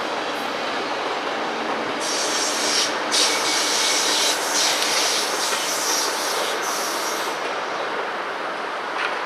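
Train running on the rails, with a harsh high-pitched hiss of wheels grinding on the rail from about two to seven seconds in.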